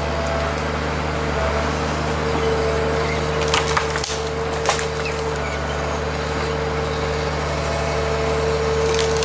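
A machine running at a steady pitch with a constant hum. Wood cracks and splinters sharply a few times, from about three and a half seconds in and again near the end.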